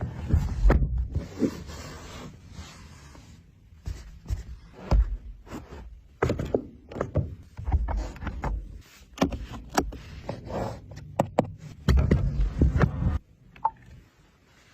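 Irregular knocks, clicks and scraping, with louder clusters about a second in and again near twelve seconds, dying away near the end.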